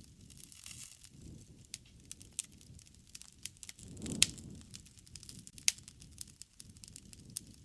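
Wood fire burning, with scattered sharp crackles and pops over a soft low rumble of flames; the loudest pop comes about four seconds in.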